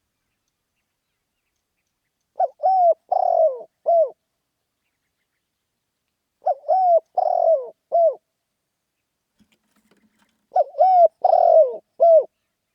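Spotted dove cooing in an energetic, rousing way: three calls about four seconds apart. Each call is a four-note phrase: two short coos, a longer rolling coo and a final short coo.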